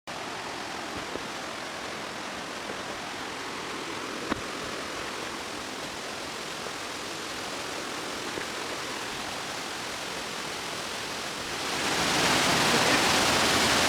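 Waterfall's rushing water, a steady wash of noise that grows louder about twelve seconds in, with one short click a little after four seconds.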